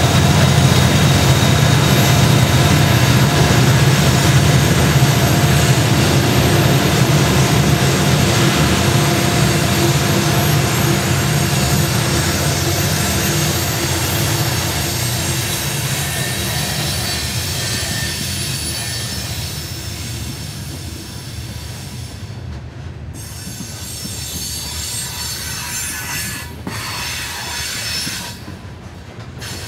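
A loaded BNSF coal train passing, with the low drone of its EMD SD70MAC diesel locomotives fading as they move away. The coal hopper cars rolling past set up a steady high-pitched wheel squeal on the curve, and the whole sound grows fainter toward the end.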